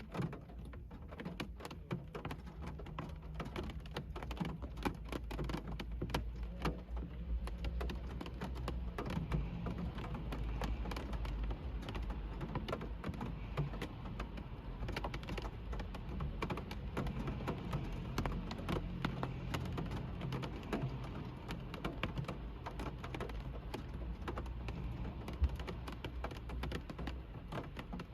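Rain falling on a car's roof and windshield, heard from inside the cabin: dense, irregular sharp ticks of drops over a steady low rumble, with one louder tick near the end.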